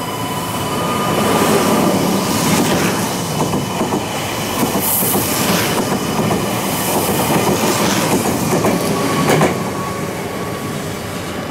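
Meitetsu 2200-series electric train running along the station platform: a steady loud rumble of wheels on rail with a few sharp clacks over rail joints and some wheel squeal.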